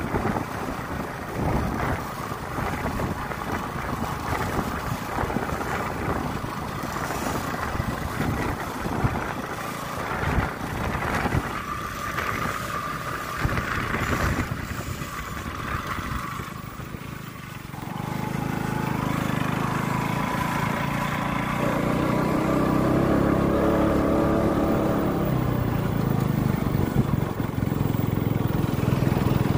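Wind buffeting the microphone on a moving motorcycle, with the KTM RC sport bike's single-cylinder engine running underneath. From about two-thirds of the way in, the engine's steady drone grows louder.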